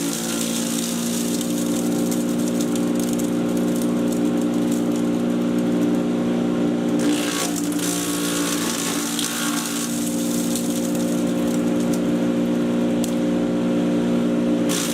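Patriot 1.5-HP electric chipper shredder running with a steady humming drone, with brief crackling bursts a little past halfway and again near the end.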